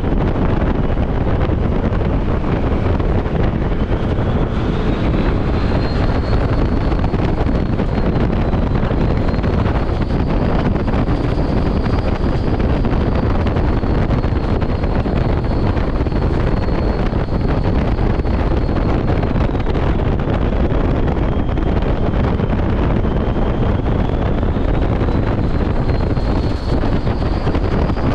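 Steady road and wind noise from a semi truck driving at highway speed, with a faint high whine that drifts slowly up and down in pitch.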